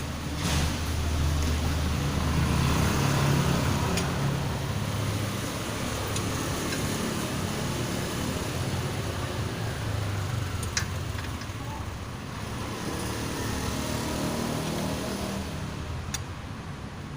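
Engine noise, a low rumble that rises and falls in pitch, with a few sharp clicks.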